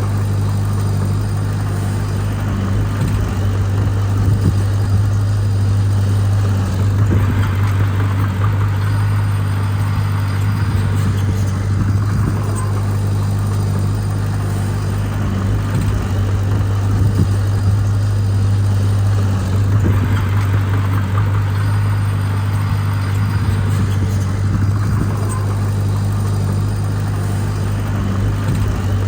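Heavy diesel engine of earthmoving equipment running with a steady deep drone. In spells of a few seconds, about twice, the engine note grows harsher as it takes on load.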